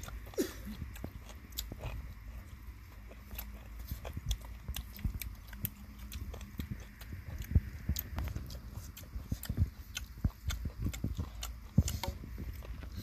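Chewing and biting on fried chicken gizzards close to the microphone: wet mouth noises with irregular sharp clicks, several a second.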